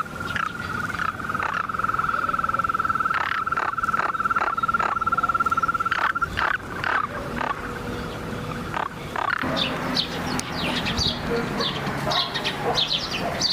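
A frog trilling: one long, even trill at a steady pitch that stops about six seconds in, with scattered clicks. Birds chirping take over in the second half.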